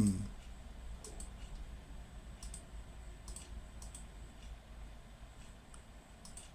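Computer mouse clicking while editing in a drawing program: scattered clicks, several in quick pairs, over a low steady hum.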